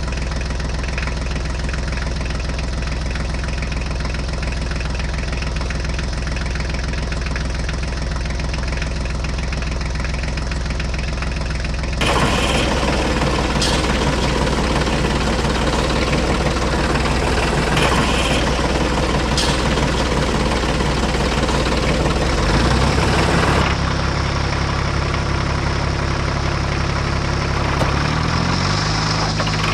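Diesel tractor-style engine idling with a steady low chug. The engine tone changes abruptly about 12 and 24 seconds in, and the pitch rises briefly near the end.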